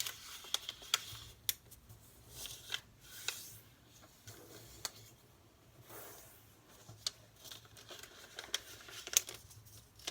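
A square of paper being folded corner to corner and creased by hand: soft rustling swishes with scattered sharp crackles and clicks as the fold is pressed down.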